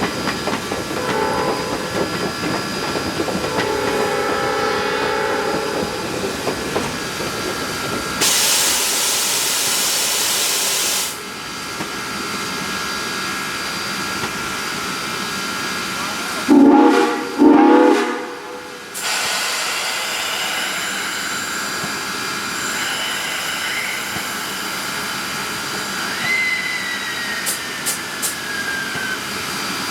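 Steam locomotive GSMR #1702 sounding its chime whistle in a held chord, then a few seconds of steam hiss that cuts off suddenly. About halfway through come two short, loud whistle blasts close together.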